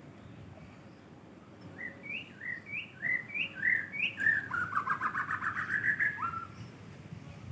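A songbird singing: starting about two seconds in, a run of short rising whistled notes alternating lower and higher, then a fast trill that climbs slightly, closing with one more upward note.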